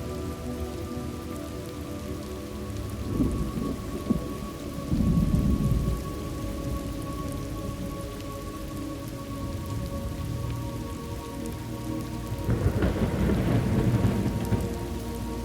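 Steady rain with two rolls of thunder: one building about three seconds in and peaking around five to six seconds, and a longer one near the end.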